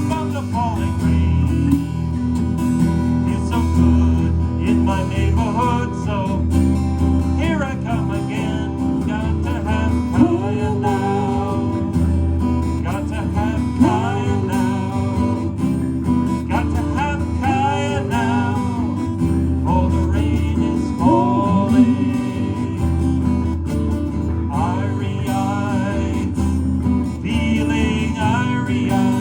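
Live band music with strummed guitar prominent over a steady bass, recorded in the room.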